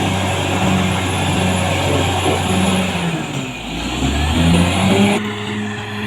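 Caterpillar D6R XL bulldozer's diesel engine running. About three seconds in its pitch drops, then climbs back and revs up to its loudest, and the sound changes abruptly just after five seconds.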